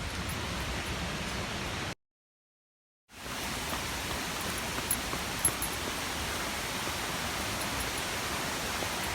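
Waterfall, a steady rush of falling water. The sound cuts out to dead silence for about a second, about two seconds in, and then comes back.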